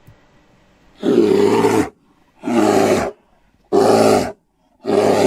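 Bear growling in four short, rough bursts about a second apart.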